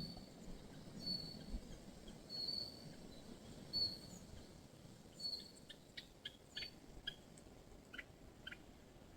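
Small birds calling: a short high whistle repeated about once a second, then, from about halfway in, bursts of brief sharp chirps.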